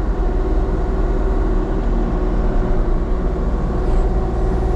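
Engine running at a steady speed, a constant low drone with a hum that neither rises nor falls.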